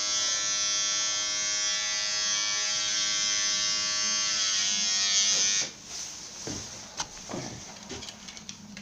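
Electric hair clipper buzzing steadily, then switched off about five and a half seconds in, followed by a few light handling clicks.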